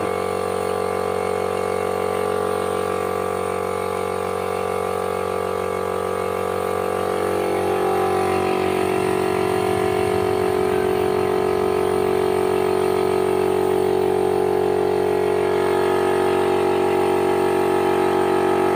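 A motor running steadily with an even hum, growing a little louder about eight seconds in.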